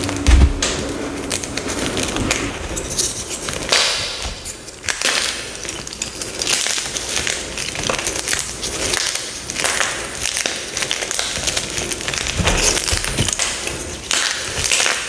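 Dyed gym chalk blocks being crushed, a dense run of crisp crunching and crumbling crackles. There is a low thud just after the start.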